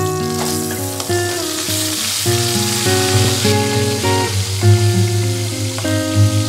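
Eel pieces sizzling as they fry in oil in a metal wok, loudest in the first half, while a metal spatula scrapes and turns them. Background music plays throughout.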